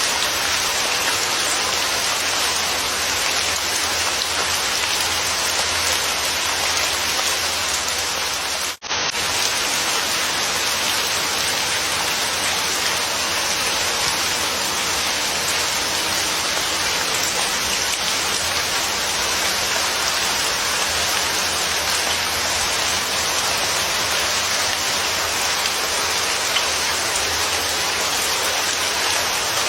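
Steady rain falling, an even hiss of many drops on a surface, with a sudden brief dropout to near silence about nine seconds in.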